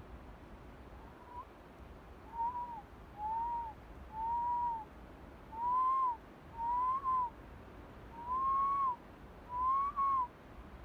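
A series of eight short, clear whistled notes, each rising and falling slightly in pitch, about one a second.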